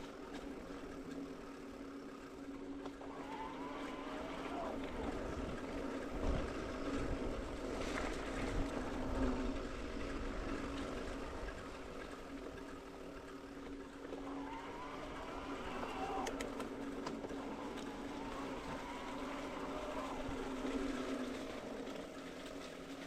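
Mountain bike riding on a forest single-track trail: a steady hum of tyre and wind noise with a pitched drone, and a few sharper knocks partway through.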